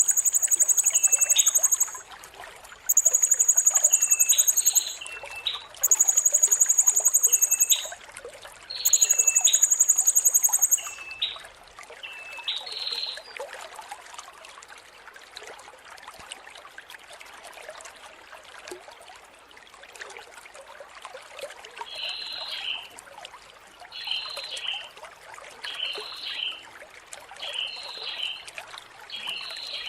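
Blue-crowned hanging parrot (serindit) singing: four long, very high, shrill trills of about two seconds each, with short chirps between, then after a quieter stretch a run of short repeated chirps near the end. A steady trickle of water runs underneath.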